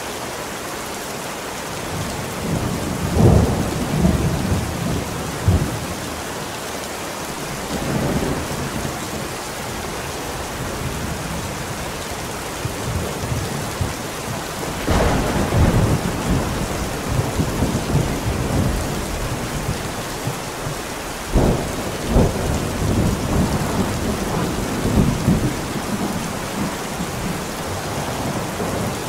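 Steady heavy rain with rolling thunder: rumbling peals swell a few seconds in, again about halfway through, and once more after about twenty seconds.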